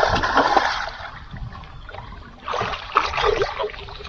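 Water splashing in two bouts, one at the start and another about two and a half seconds in: a hooked bass thrashing at the surface beside a kayak as it is brought in.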